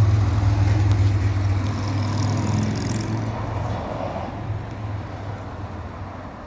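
Toyota Aristo's 2JZ-GTE twin-turbo inline-six idling with a steady low hum, fading steadily quieter toward the end.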